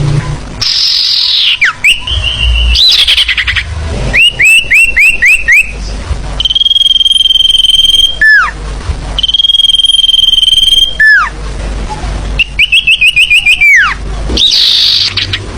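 Forest bird calls from a bird-trapper's lure recording: a harsh falling call near the start, runs of quick rising whistled notes, and twice a long, steady, high whistle that ends in a sharp downward slide.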